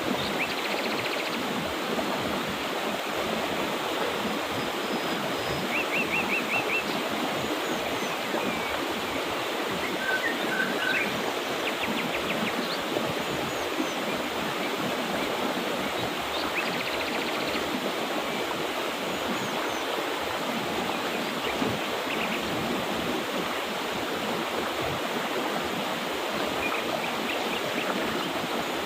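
Mountain river water running steadily, with small birds chirping now and then in short trills over it.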